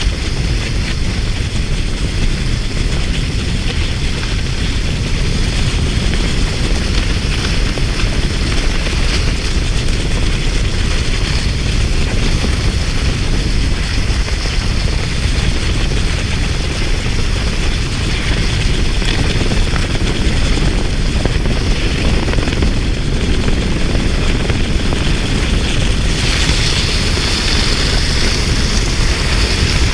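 Steady low rumble of wind buffeting the microphone, with a brighter hiss coming in about 26 seconds in.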